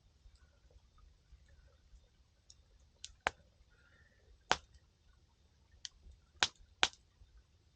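Wood fire crackling: a handful of sharp, irregular pops from burning firewood, about six in the second half, over a faint low background rumble.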